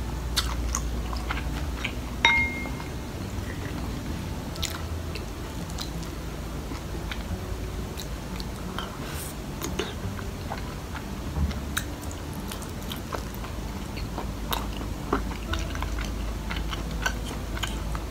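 Close-miked chewing and wet mouth sounds of someone eating a thick fried chicken cutlet with curry rice, with many small clicks. One short ringing clink sounds about two seconds in.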